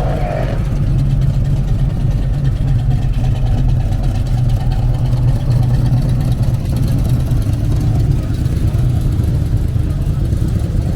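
Car engine idling with a steady low exhaust rumble.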